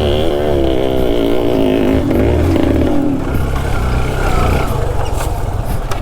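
Yamaha RX two-stroke single-cylinder motorcycle engine running, its pitch wavering up and down with the throttle, then dropping away about three seconds in.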